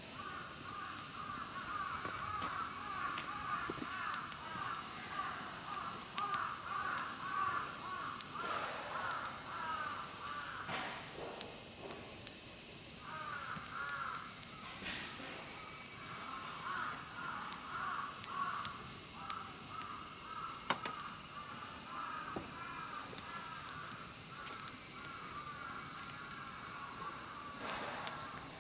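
Steady, high-pitched chorus of summer insects, with a lower, warbling chirp that comes and goes, and a few sharp crackles from the campfire.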